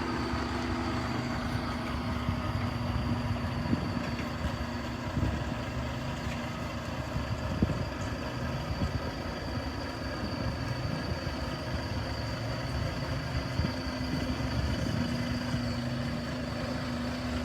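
Diesel engine of a semi truck hauling long bridge beams, running steadily with a low drone.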